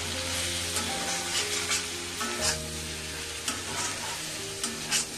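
Chicken masala sizzling in oil in an iron kadai as it is stirred, frying in the freshly added ground spices and chilli powder. Several sharp scrapes of the stirring spoon against the pan sound over the steady sizzle.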